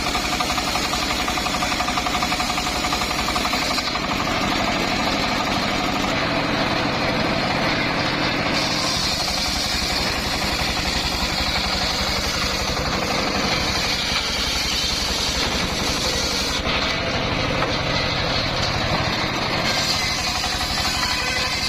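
Engine of a homemade circular sawmill running steadily with a fast knocking rhythm while the saw works through timber; the higher saw noise changes every few seconds as the cut goes on.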